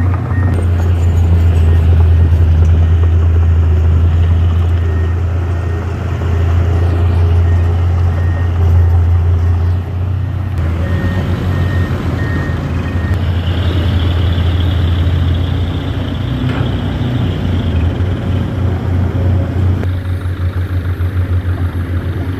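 Isuzu Giga dump truck's heavy diesel engine running steadily under load, with its reversing beeper giving short, evenly spaced beeps at the start and again about halfway through.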